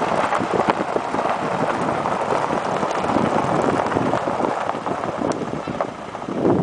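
Wind buffeting the microphone: a loud, rough, steady rush of noise that dips briefly near the end.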